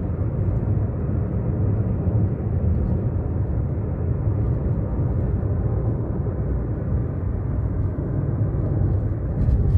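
Steady low rumble of a car's road and engine noise, heard from inside the cabin while driving along a highway at an even pace.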